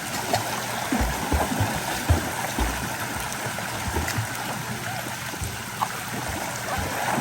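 Running water with a gurgling, bubbling character over a steady rush, and irregular low thumps now and then.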